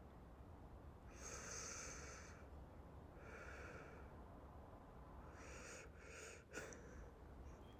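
Soft, slow breathing close to the microphone: three long breaths, the first the loudest, with a small sharp click near the end of the third.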